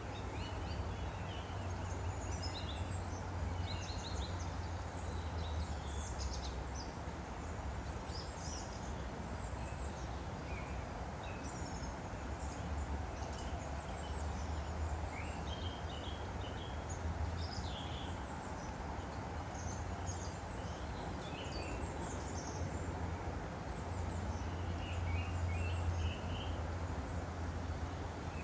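Woodland stream flowing steadily, with small birds chirping in short bursts throughout.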